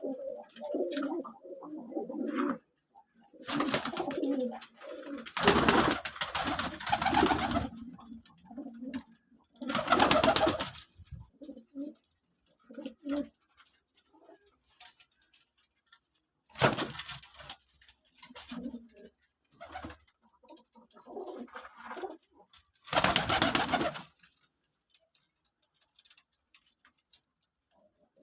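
Pigeons cooing in low, rolling calls. The cooing is broken by five loud noisy bursts, each about one to two seconds long.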